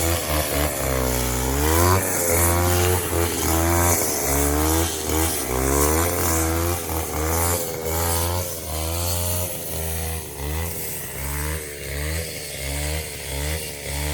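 Robin brush cutter's small petrol engine revving up and down over and over, the pitch swinging from low revs to high and back. In the last few seconds the revs rise and fall in shorter, quicker blips.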